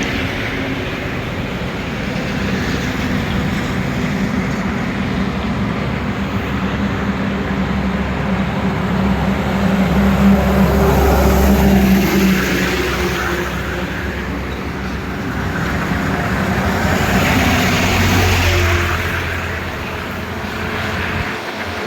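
Highway traffic: road vehicles passing with engine drone and tyre noise, swelling as one vehicle goes by about ten seconds in and another a little before the end.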